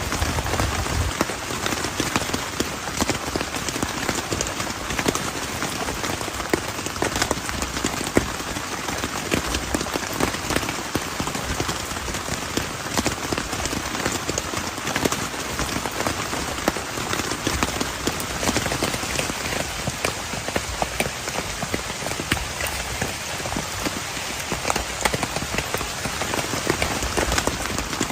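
Steady heavy rain: a dense hiss of countless drops striking a surface.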